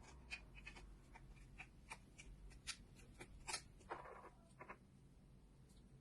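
Faint, scattered light clicks and short scratches of small handwork, over a low steady room hum, with a slightly longer scrape about four seconds in.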